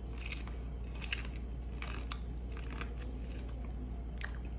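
A man biting kernels off an elote, a corn on the cob slathered in cream, mayonnaise and cheese, and chewing, with short soft crunches scattered through. A steady low hum runs underneath.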